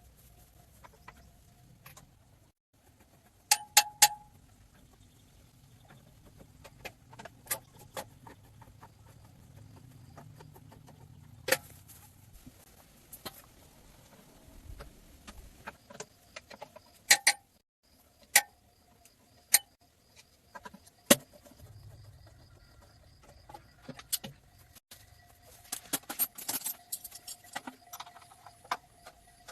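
Scattered metallic clinks and knocks of tools and engine parts being handled, with a few sharp strikes and a busier run of clinking near the end.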